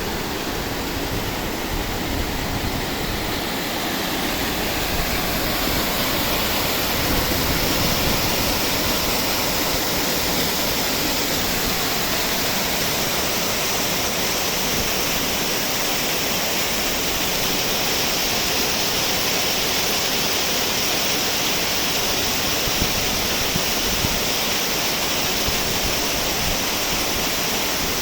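River water rushing steadily, a loud, even rush of flowing water.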